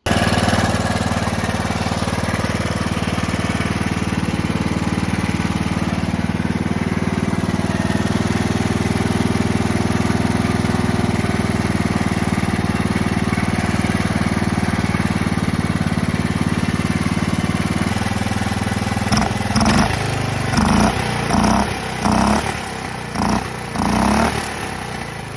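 Small garden tractor engine running steadily on a replacement ignition coil. Late on it rises and falls in about six loud pulses, roughly one a second.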